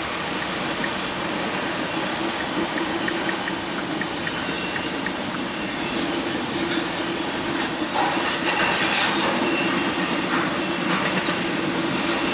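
Two CSX freight trains passing together on adjacent tracks, a local freight and a train of empty autorack cars: steady noise of steel wheels rolling on rail, getting a little louder about eight seconds in.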